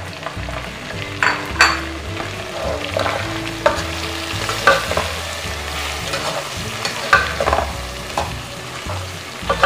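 Chicken and freshly added ground spices sizzling in hot oil in a metal pot, stirred with a wooden spoon that scrapes and knocks against the pot every second or so: the spices are being fried into the chicken.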